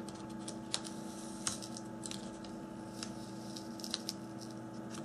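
Small, sharp clicks and ticks, one every half second to second, from repair tools picking at the inside of an opened smartphone, over a steady low electrical hum.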